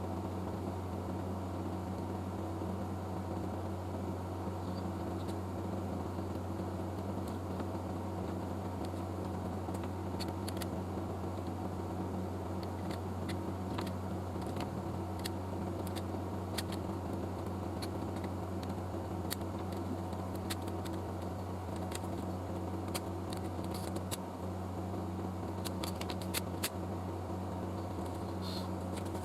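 A steady low electrical or machine hum with a fixed pitch, with scattered faint clicks and ticks from about ten seconds in.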